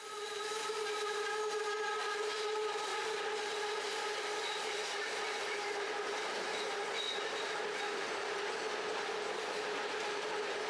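Bangkok BTS SkyTrain running on its elevated track: a steady high whine of several held tones over a hiss, unchanging throughout.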